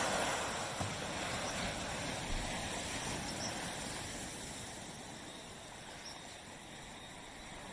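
Small surf on a beach: a wave's wash loudest at the start and slowly fading over several seconds, with the next wave beginning to build near the end.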